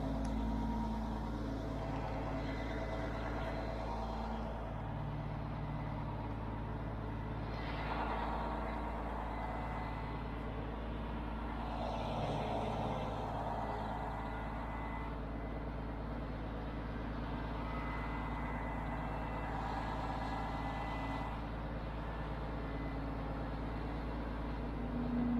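Heavy diesel engine of a mobile crane running steadily, with a few brief swells higher in pitch.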